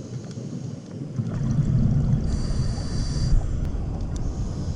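A scuba diver breathing through a regulator underwater. A low bubbling rush of exhaled air swells from about a second in, with a high hiss from the regulator for about a second in the middle.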